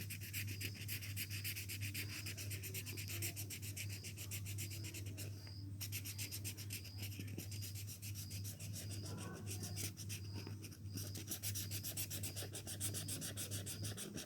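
Colouring on paper: rapid back-and-forth scratchy strokes of a colouring tool filling in a drawn plant's stem and branches in green, pausing briefly twice.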